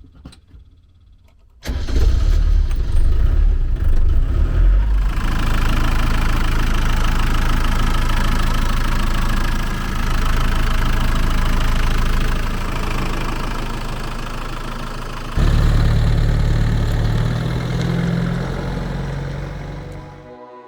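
Land Rover 200Tdi four-cylinder turbodiesel engine starting about two seconds in after a few faint clicks, then running steadily. About fifteen seconds in the sound shifts suddenly to a louder, deeper note, and it cuts off just before the end.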